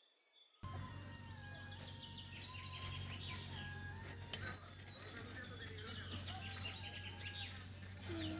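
Birds chirping and calling over a steady low hum, which cut in suddenly about half a second in. A single sharp click about four seconds in is the loudest sound.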